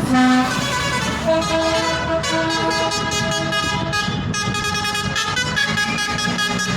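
Horns tooting in short repeated blasts over the running engines of passing tractors. The blasts come near the start and again from about one to three seconds in.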